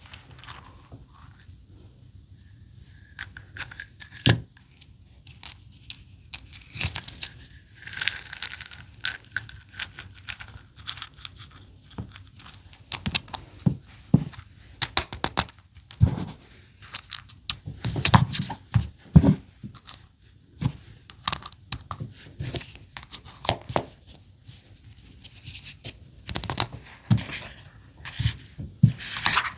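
Crinkling and tearing of small plastic wrappers, with irregular clicks and taps as tiny plastic Mini Brands grocery items are handled and set into a toy fridge. The clicks grow busier in the second half.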